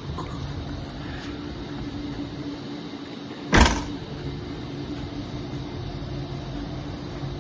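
Toyota Wish minivan idling with a steady low hum, and about three and a half seconds in one loud thump as a door is shut.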